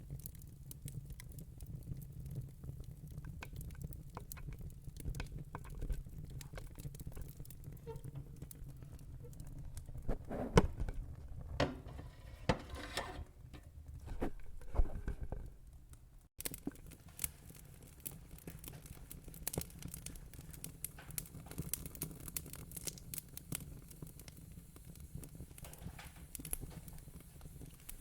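Wood fire crackling and popping over a low, steady rumble, with a run of louder pops about ten to fifteen seconds in. The sound cuts out for an instant about sixteen seconds in, then the crackling carries on.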